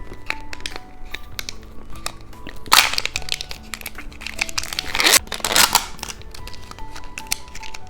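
Plastic candy wrapper crinkling and tearing over light background music, with many small clicks and two louder bouts of crinkling, about three seconds in and again around five seconds.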